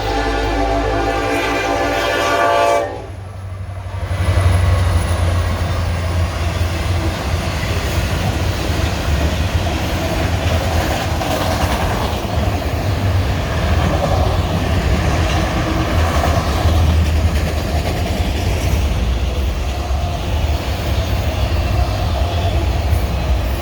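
Norfolk Southern diesel locomotive's air horn sounding a steady chord that cuts off about three seconds in. Then the train passes close by, a loud steady rumble of the engines and railcars with wheels running on the rails.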